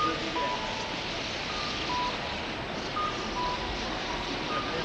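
Electronic two-tone warning beeper, typical of a vehicle's reversing alarm, sounding short high-low beep pairs about every second and a half over a steady background hiss.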